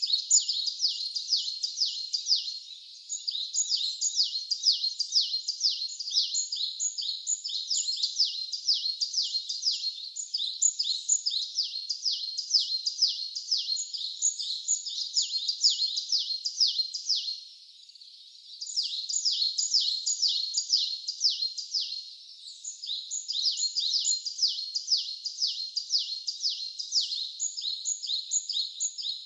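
Birds chirping in a dense, continuous run of quick, high, downward-sliding notes, several a second, with a brief pause a little past the middle.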